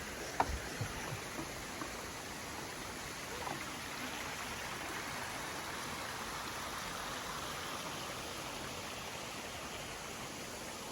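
Mountain stream rushing steadily. A few sharp knocks come in the first second.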